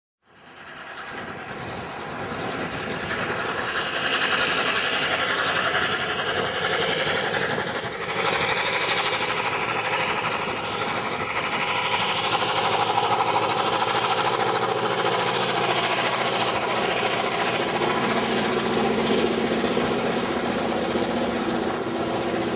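Coal train rolling past behind an ARG 22 class diesel locomotive: a long string of coal hopper wagons rumbles steadily by on the rails. The sound fades in over the first few seconds and then holds steady.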